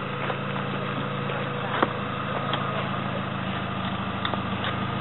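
Car engine idling steadily, with one sharp click a little under two seconds in.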